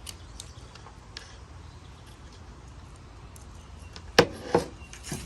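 Sharp clicks of test wires being touched and connected to power up a Pontiac Firebird pop-up headlight motor on the bench: a few light ticks, then two loud clicks about four seconds in and a smaller one near the end.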